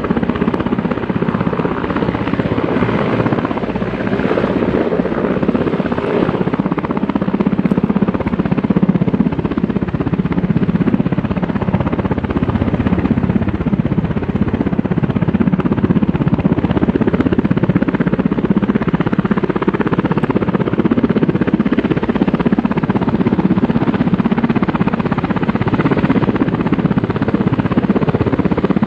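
Helicopter running steadily overhead, a continuous rotor and engine noise that does not let up.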